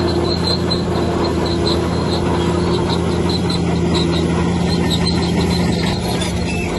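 Bulldozer's diesel engine running steadily, with a faint high squeal from its steel tracks repeating a few times a second. The engine note shifts near the end.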